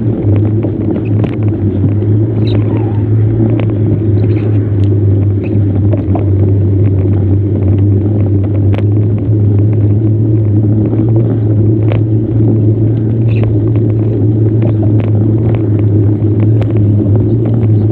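Steady, loud low rumble of riding noise from a bicycle on the move, with scattered small clicks and rattles.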